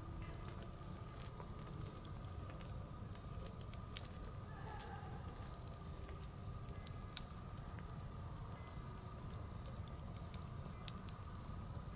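Wood bonfire crackling, with irregular sharp pops over a steady low rumble; two louder pops come about seven seconds in.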